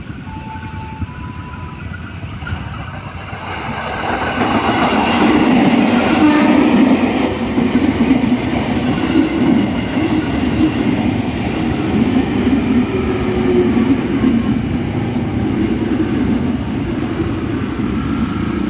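Electric commuter train passing close by, its wheels rumbling and clacking over the rails. It grows louder about four seconds in and stays loud.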